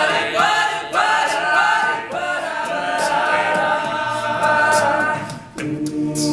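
Male a cappella group singing close vocal harmony with no instruments, the voices holding and moving through sustained chords; the sound dips briefly about five and a half seconds in before the singing starts again.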